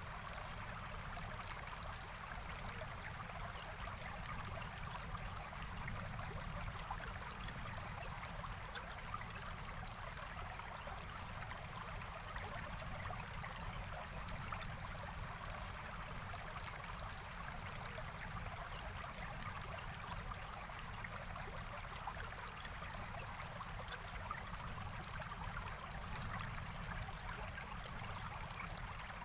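Forest stream running steadily: an even, unbroken rush of flowing water.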